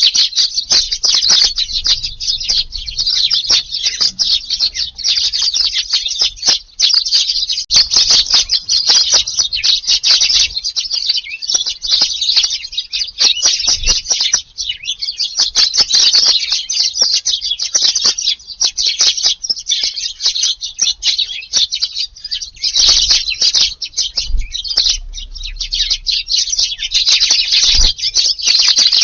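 A flock of Eurasian tree sparrows chirping continuously, with many short calls overlapping.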